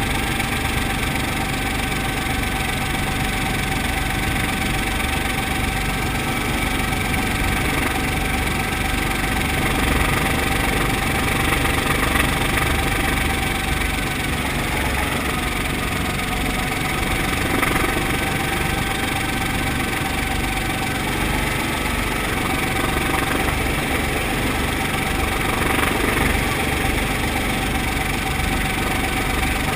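Brantly B2B helicopter's piston engine and rotors running steadily, with a constant whining tone over the engine noise and a few slight swells in loudness.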